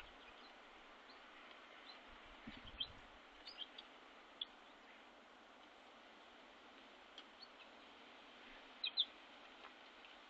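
Faint, scattered short chirps from small birds at a winter bird feeder, a few in the first few seconds and a quick pair near the end, over a soft steady hiss. A soft low thud about two and a half seconds in.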